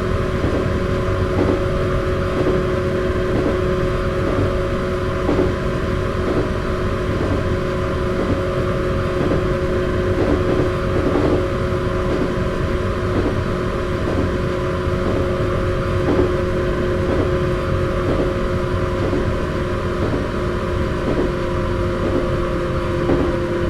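Electric train with resistance (rheostatic) control running at a steady speed: a steady rumble with a constant two-note hum and regular light knocks from the wheels crossing rail joints.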